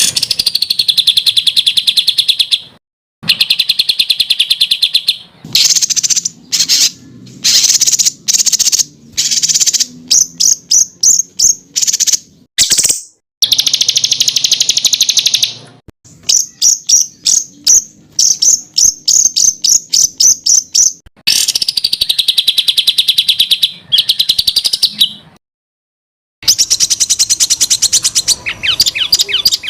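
Songbird song of the 'tembakan' kind: loud, rapid high trills and quick runs of sharp repeated notes, in separate phrases with brief silent gaps between them.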